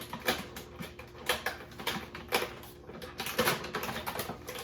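Toy packaging being handled and pulled at by hand, an irregular run of sharp clicks and crinkles.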